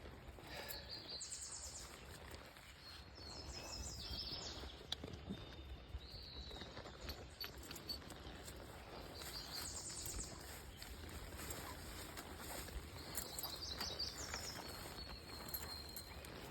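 Songbirds singing: short, high, trilled phrases that recur every few seconds, over a low steady rumble.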